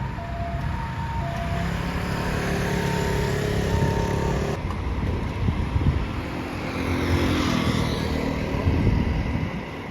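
Ambulance's two-tone siren alternating between two pitches and fading out over the first couple of seconds, over the engine of an emergency vehicle pulling away. After an abrupt change about halfway through, a fire engine's motor is heard running as it moves off.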